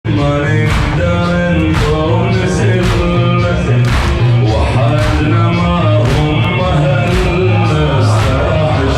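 A male reciter chanting a Shia Muharram lament (latmiya), his sung voice rising and falling over a steady beat of strokes about once a second.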